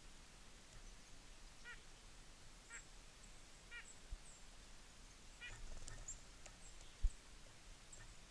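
Small birds calling at a feeder: short call notes in groups about a second apart, with thin high chips between them, and a single dull thump about seven seconds in.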